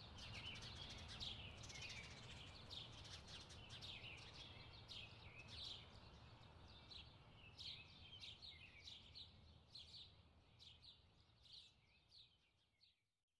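Small birds chirping, faint and repeated, over a low steady hum; the chirps thin out and fade away near the end.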